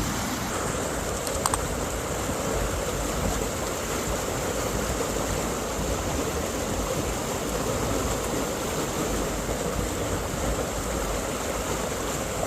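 Mountain stream rushing steadily over rocks. Two sharp clicks sound close together about a second and a half in.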